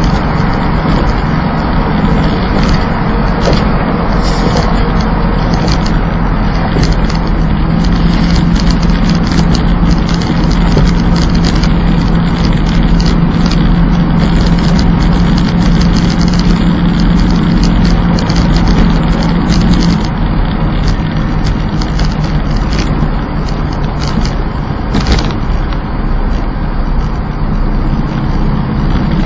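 Plymouth Volaré's engine running at a steady speed on the road, with tyre and road noise; about two-thirds of the way through, the engine note drops lower and stays there.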